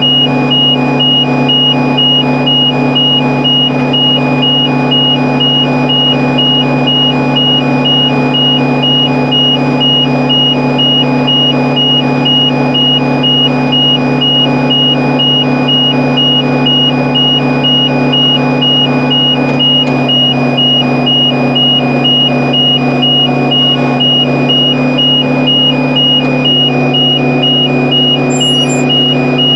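Tractor engine running steadily while pulling a hay baler, with a rapid, high electronic beeping throughout.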